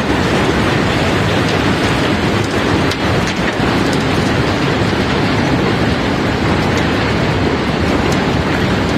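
Cobblestones pouring and rattling off a barge as the load is dumped: a steady, dense rumbling clatter of many stones.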